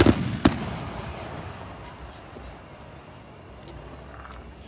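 Aerial fireworks shells bursting: a loud bang at the start and a second one about half a second later, their echo dying away over the next couple of seconds.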